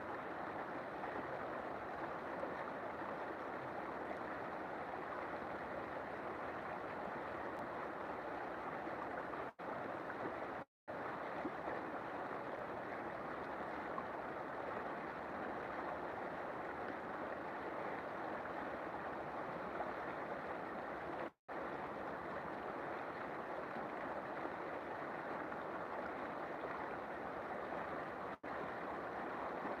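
River water flowing in a steady, even rush, broken a few times by split-second dropouts to silence.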